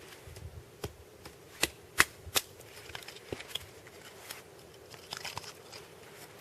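Small thin wooden slats clattering as they are dropped in one by one as kindling: three sharp wooden knocks in quick succession between one and two and a half seconds in, with lighter clicks before and after.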